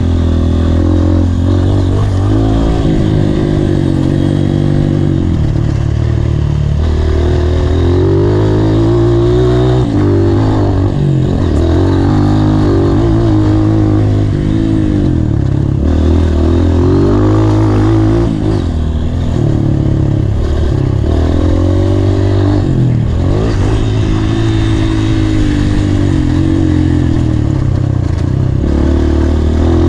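Honda CRF230 dirt bike's single-cylinder four-stroke engine being ridden hard, revving up and dropping back again and again through the throttle and gear changes.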